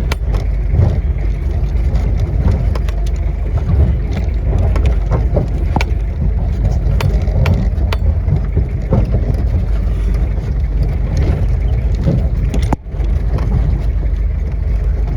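Motorcycle riding over a rough, stony off-road track: a steady low rumble with wind on the microphone and scattered rattling knocks from the rocks.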